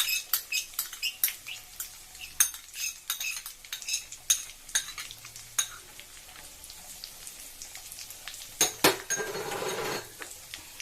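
A kitchen utensil clinking and scraping against a frying pan in irregular taps while stirring a butter-and-chilli sauce over a faint sizzle. Near the end come two sharper knocks, then a short rush of noise.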